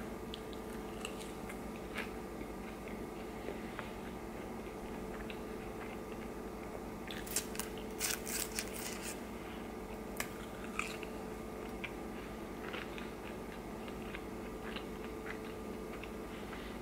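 A person chewing and eating crinkle-cut french fries close to the microphone: quiet mouth clicks and chewing noises, busiest around the middle, over a faint steady hum.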